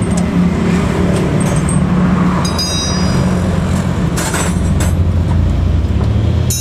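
A truck engine running steadily, its pitch shifting a little about five seconds in, with a sharp ringing metallic clink about two and a half seconds in.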